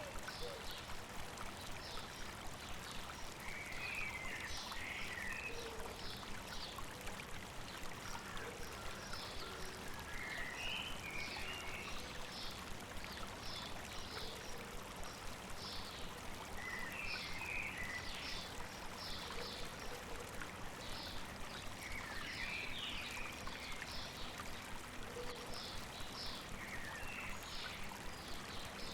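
Steady rushing of a flowing stream over rocks, with birds singing over it: many short high chirps and a brief warbled phrase repeated about every five or six seconds.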